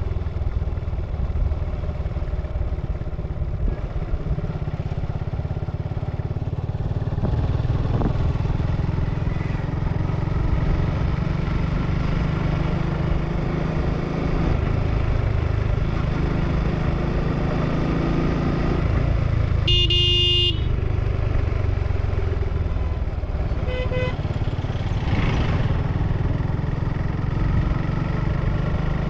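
Suzuki Gixxer motorcycle engine running through its stock exhaust while riding, a steady low engine sound. A vehicle horn sounds briefly about two-thirds of the way through, with a fainter horn a few seconds later.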